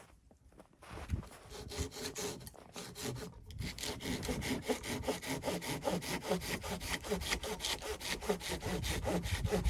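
Hand saw cutting through wood in quick, even back-and-forth strokes. It starts faintly and gets steadier and louder from about three and a half seconds in.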